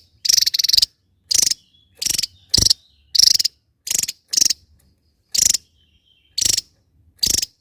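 Javan tesia calling: a run of short, dry, harsh rattling notes, about one a second, each under half a second long. Faint thin high whistles come between them.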